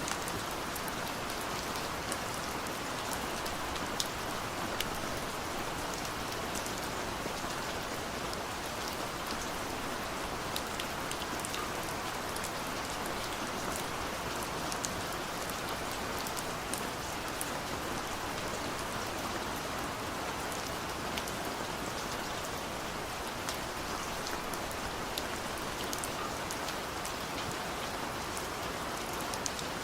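Steady rain falling, a dense even hiss with many single drops ticking through it.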